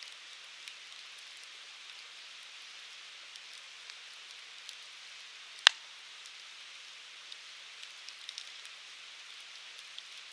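Firewood burning in a Uniflame Fire Grill: a steady hiss of flames with scattered small crackles, and one sharp loud pop a little past the middle.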